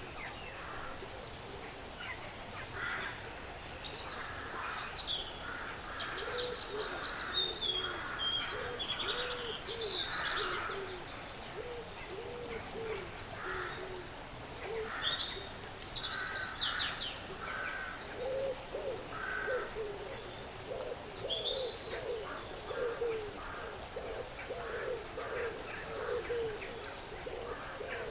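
Woodland birds calling, with many short, high falling chirps. A low, repeated cooing note comes in and grows more frequent in the second half.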